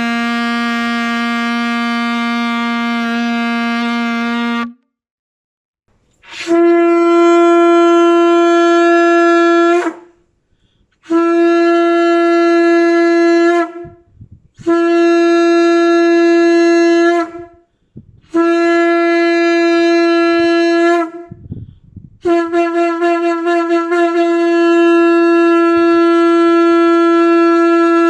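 Shofar (ram's horn) blasts: one long, low note that stops about five seconds in, then five separate blasts on a higher note, each about three seconds long. The last blast starts with a quick wavering and is held longest.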